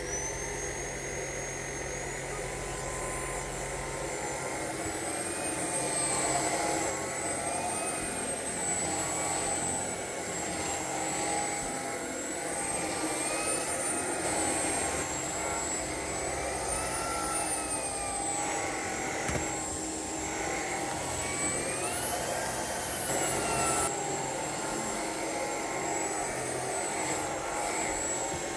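Tineco Pure One Station cordless stick vacuum running, a steady motor whine and airflow rush, its high pitch rising and falling every few seconds as the load on the brush head changes.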